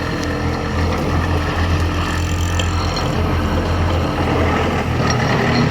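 Heavy diesel engine, such as a truck's or a roadworks machine's, running steadily with a constant low drone.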